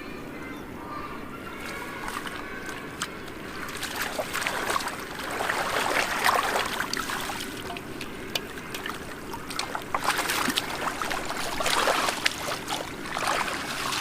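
Shallow muddy floodwater splashing and sloshing, with irregular louder bursts of splashes around the middle and again near the end.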